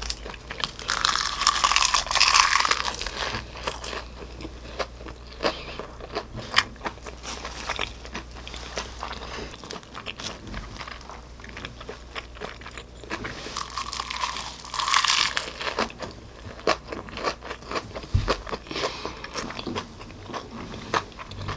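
Close-up eating sounds of gimbap wrapped in salt-seasoned laver (gim): crunchy bites and chewing with many small clicks. The loudest crunches come about a second in and again about fourteen seconds in.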